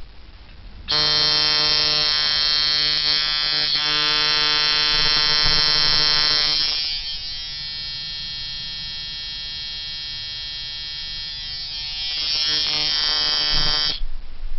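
Coil-style Uber-Lite tattoo machine, a medium-stroke liner, buzzing on low voltage, started at 4 volts. It starts about a second in and runs loud for some six seconds. It then drops to a quieter buzz for about five seconds, comes back louder, and cuts off shortly before the end.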